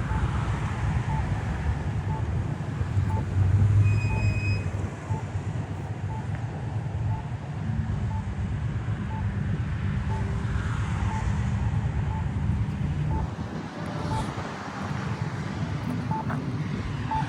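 Steady rumble of road traffic with wind buffeting the microphone, and a faint, evenly repeating beep.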